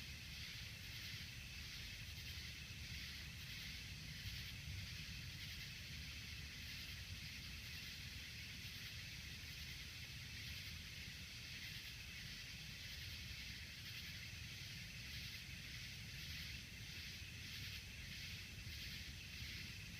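Evening insect chorus, a high steady trilling that pulses regularly about one and a half times a second, over a low steady rumble.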